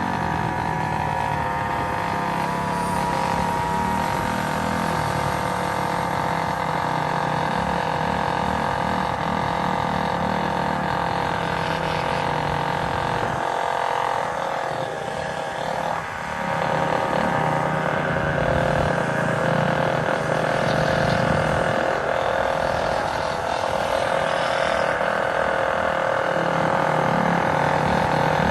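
Small gasoline engine running at fairly steady revs while riding, easing off about halfway through and then picking up again.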